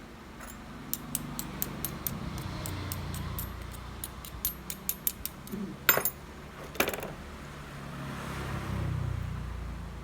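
A quick run of light clicks and taps from small hard objects, then two louder knocks. A low rumble swells and fades near the end.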